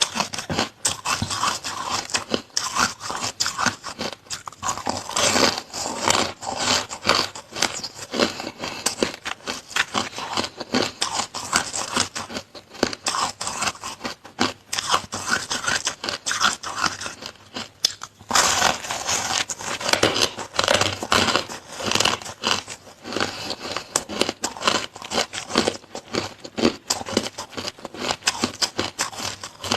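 Close-up biting and chewing of frozen shaved ice: a dense run of crisp, rapid crunches, with a short pause about eighteen seconds in.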